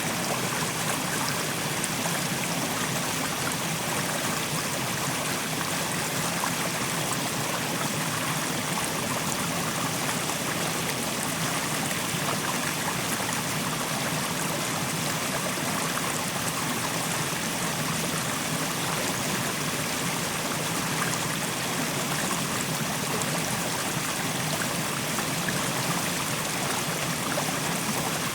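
Mountain stream flowing steadily over rocks, a constant rush of water with a fine trickling texture.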